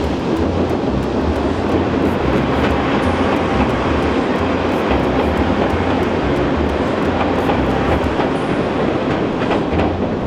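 A train passing close by on the railway track, a steady loud rumble with wheels clicking over the rails.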